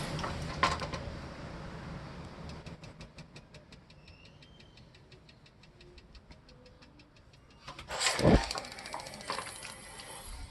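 Gas water heater's igniter sparking: a steady run of sharp clicks, about seven a second, for about five seconds. It is followed about eight seconds in by a loud thump and a rush of noise.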